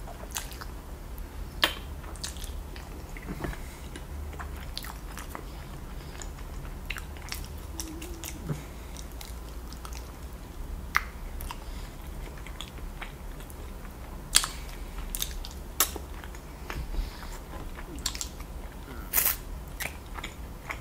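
Chewing and biting on sauce-covered rotisserie chicken pieces and bones, with many short sharp clicks scattered throughout, the loudest about two-thirds of the way in and near the end.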